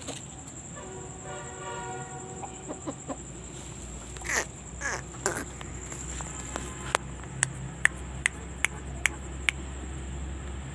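A rooster crows once in a long held call, followed by a few short chicken calls over a low rumble. Later comes a run of about seven sharp clicks, roughly two a second; these are the loudest sounds.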